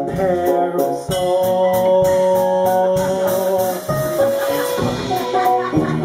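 A live band of keyboard, guitar, bass and drums playing an instrumental passage of a pop song: held keyboard chords over a steady drum beat.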